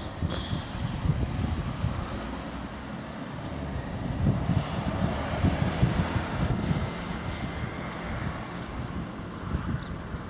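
Diesel train running at a station, a low rumble that swells for a few seconds mid-way, with wind buffeting the microphone.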